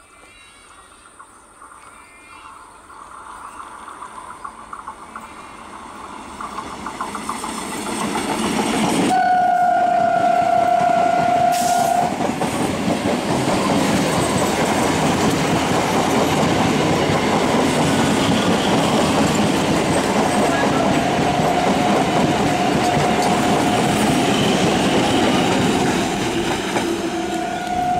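Electric multiple unit (EMU) local train approaching and passing close at speed. Its running noise builds steadily, then the train's horn sounds one steady note for about three seconds. The loud rush of the coaches going by follows, and the horn sounds again near the end.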